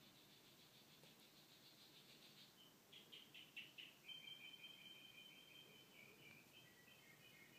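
Faint birdsong: a fast high trill, then a few quick chirps about three seconds in, then longer, wavering high notes.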